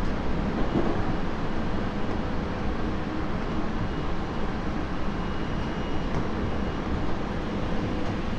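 Tobu 30000 series electric train running between stations, heard inside the passenger car: a steady rumble of wheels on rail with faint steady tones from the Hitachi IGBT-VVVF traction equipment.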